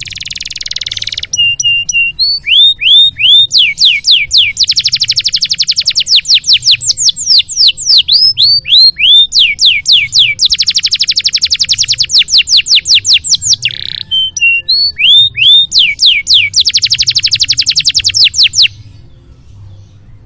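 Canary singing a long, loud song of rapid trills and runs of repeated downward-sweeping whistled notes, stopping abruptly near the end.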